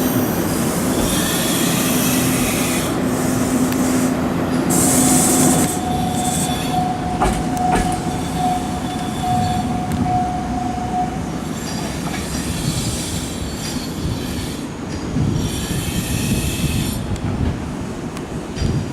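Nankai electric train running through the station with continuous rolling noise. A low steady tone is heard for a few seconds, then a higher steady whine, with two sharp clicks about seven seconds in.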